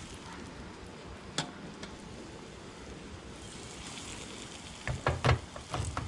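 Fish frying in a pan of oil: a steady sizzle that turns brighter about three seconds in. A single click comes about a second in, and a few sharp knocks sound near the end.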